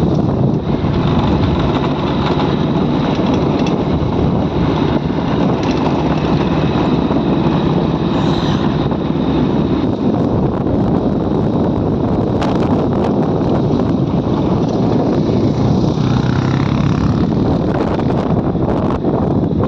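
Motorcycle running steadily on the move, with heavy wind noise on the microphone.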